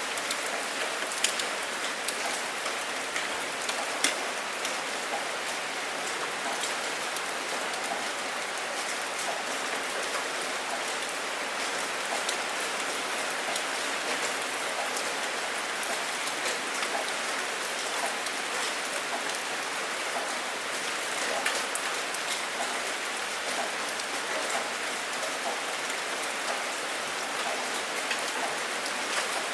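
Steady rain falling on a hard surface, a continuous hiss with individual drops ticking through it and two sharper drop hits about one and four seconds in.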